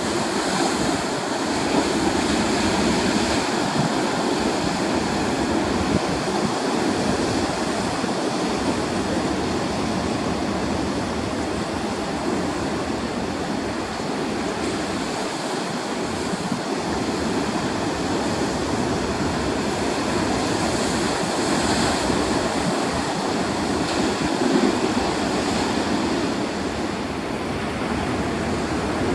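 Heavy surf from big seas: waves breaking and washing in, a continuous rush of water that swells and eases in level.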